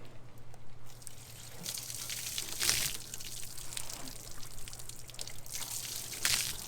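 Water spraying and splashing during a truck wash: a hissing rush that starts about a second in and surges louder twice, once midway and once near the end.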